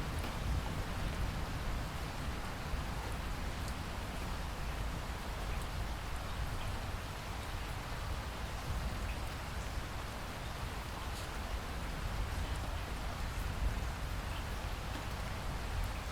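Steady rainfall: an even hiss of rain with faint, scattered drop ticks over a low rumble.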